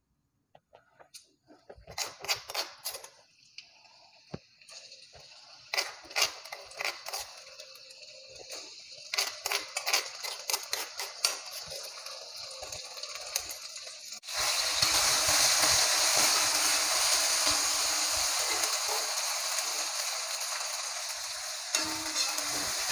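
Ground chili-shallot spice paste going into a wok of hot oil: a run of clicks and scrapes of a metal spoon and spatula, then, about fourteen seconds in, a loud steady sizzle starts as the paste fries, with the spatula scraping the wok near the end.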